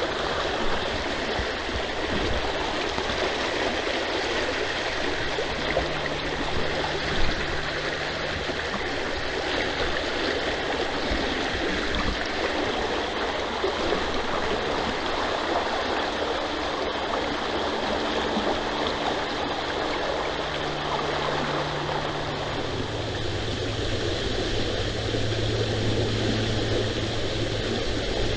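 Creek water rushing steadily. A low steady hum, like a distant engine, comes in near the end.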